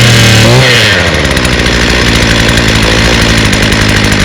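Craftsman 33cc two-stroke string trimmer engine running just after starting on the first pull, on choke. It runs fast, then drops about a second in and settles to a steady idle.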